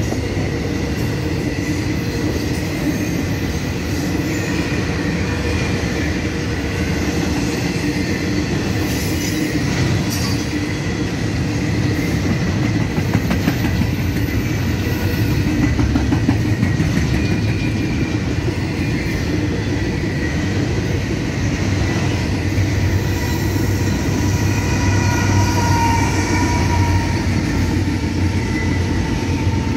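CSX intermodal freight train's double-stack container cars rolling past at speed: a steady, continuous noise of steel wheels on the rails with clickety-clack over the rail joints.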